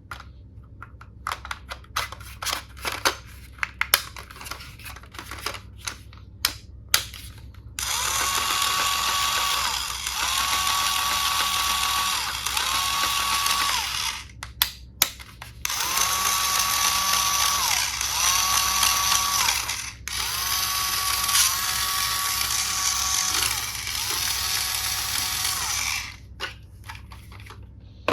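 Plastic toy pieces clicking and rattling as they are handled, then a battery-powered toy power tool's small electric motor running in a series of short bursts of a second or two each. Each burst has a whine that rises as it starts and drops as it stops.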